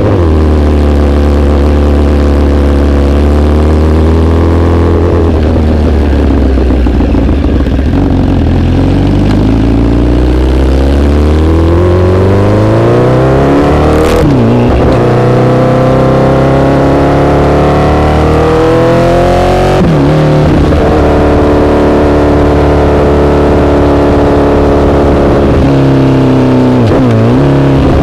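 Honda CBR1000RR's inline-four running through an SC-Project aftermarket exhaust while riding: the engine note falls off for several seconds, then climbs again under throttle, with three quick drops in pitch as it shifts up through the gears.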